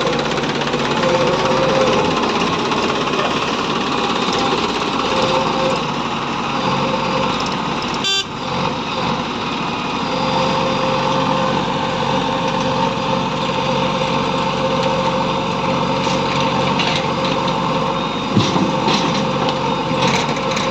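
Diesel engines of a JCB 3DX backhoe loader and a tractor running steadily under load while digging and loading soil, with a held whining tone over the engine noise. There is a brief break about eight seconds in and a few short knocks near the end.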